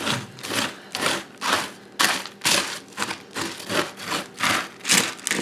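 Dry cereal coated in melted white chocolate being stirred in a pan, in rhythmic scraping and rustling strokes about twice a second.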